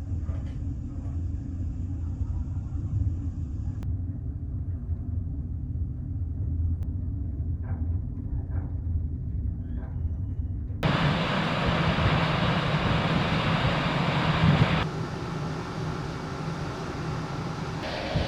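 Steady low rumble of a large ferry's engines under way. About eleven seconds in, it switches abruptly to a louder, even rushing noise.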